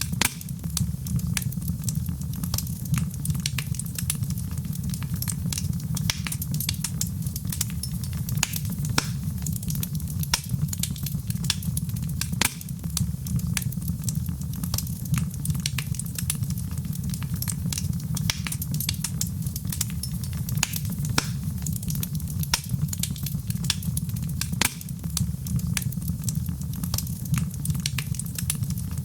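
Fireplace fire crackling, with frequent sharp, irregular pops and snaps over a steady low rumble of the flames.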